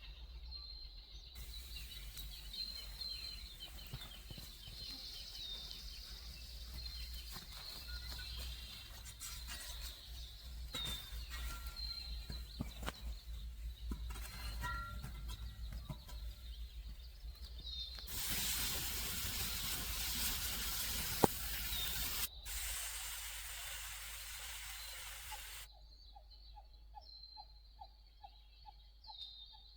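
Outdoor ambience of steady hiss with repeated high bird chirps. The hiss grows louder for several seconds past the middle, with a single sharp click, and near the end a faint fast pulsing call is heard.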